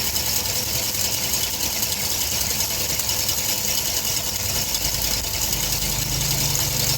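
A motor running steadily under a loud, even hiss, with a deeper hum joining about five seconds in.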